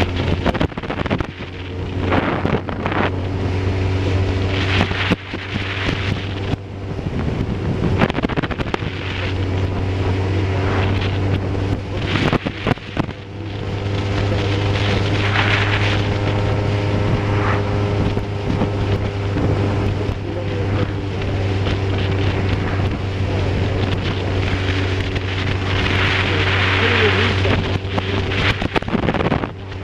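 Steady engine drone of a vehicle under way, with wind buffeting the microphone and occasional knocks.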